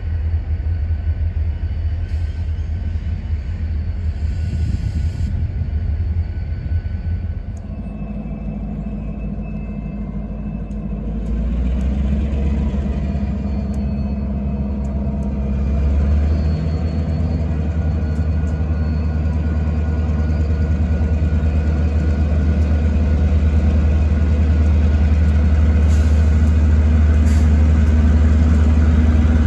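Freight cars rolling past with a steady low rumble. Then a line of diesel freight locomotives approaching, their engines running with a steady low drone that grows louder toward the end.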